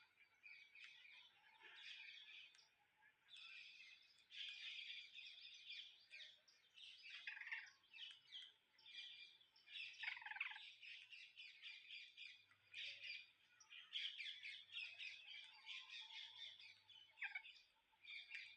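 Parrots chirping and chattering continuously, many short high calls overlapping.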